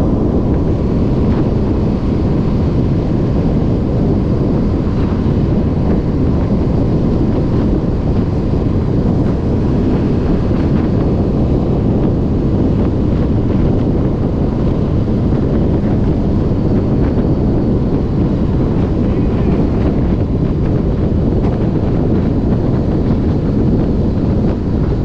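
Steady wind rush buffeting a GoPro's microphone on a moving motorcycle, a loud, even low roar with no distinct events.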